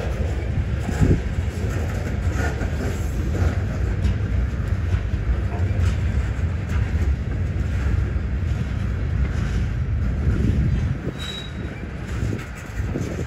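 Freight cars of a slow 10 mph manifest train rolling past: a steady low rumble of steel wheels on rail with scattered clunks, and a short high wheel squeal about 11 seconds in.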